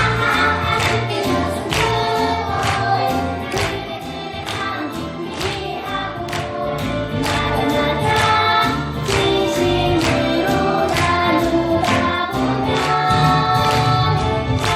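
A choir of young children singing a song together over an instrumental accompaniment with a steady beat.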